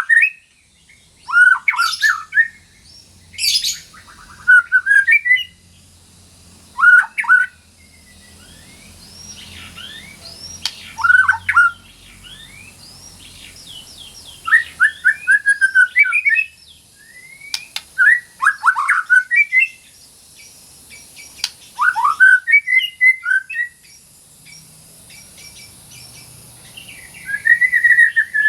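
White-rumped shama (murai batu) singing: loud phrases of quick whistled and chattering notes, some sweeping up or down, one phrase every second or two with short pauses between.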